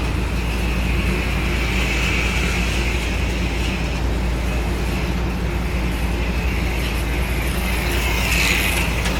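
Small electric motors of HO-scale slot cars whining as they run around the track, the whine wavering up and down with speed and swelling near the end, over a steady low hum.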